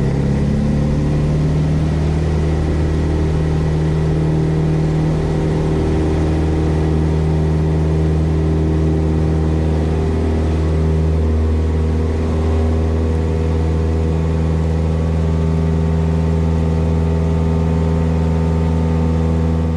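Cessna 172S Skyhawk's four-cylinder Lycoming engine and propeller at full takeoff power, a loud, steady drone.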